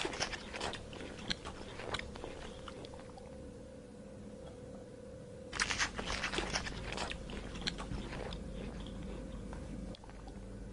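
An animal chewing crunchy food, crisp crunches coming in two bouts: one at the start and another from about five and a half seconds in, with a quieter lull between.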